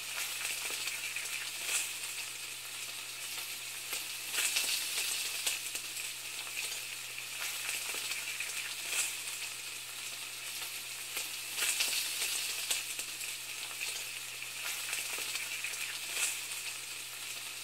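A steady sizzling, crackling hiss like food frying in a hot pan, with louder swells every few seconds, over a faint low hum.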